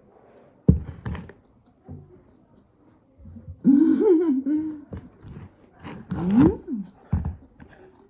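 A sharp thunk about a second in, then a person's wordless voice rising and falling twice, with a few light knocks between.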